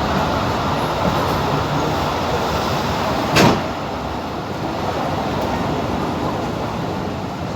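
Passenger train carriage running noise, a steady rumble and rattle, with a single sharp knock about three and a half seconds in.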